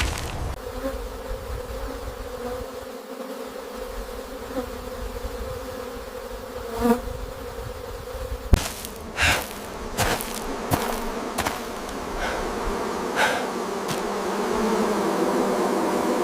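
Swarm of bees buzzing steadily, with a handful of sharp knocks and short noisy hits in the second half.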